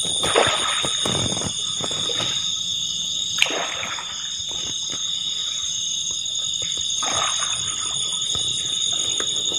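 Paddle splashing in river water as a small rowboat is rowed: a few splashes a few seconds apart. Underneath runs a steady high-pitched chorus of night insects.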